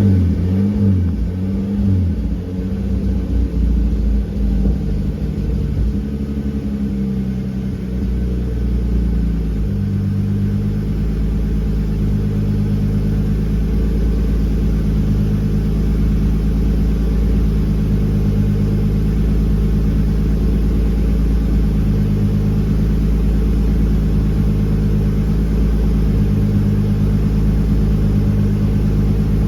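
Turbocharged BMW M52TU 2.8-litre straight-six idling just after a start. For the first ten seconds the idle is uneven and wavers up and down. It then settles into a steadier idle that still wavers every couple of seconds, which the owner asks about as a possible rough idle.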